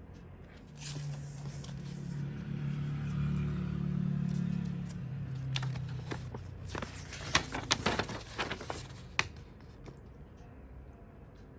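Packaging being handled: a low rubbing or sliding sound for several seconds, then a quick run of clicks and crinkles that ends a little after the middle.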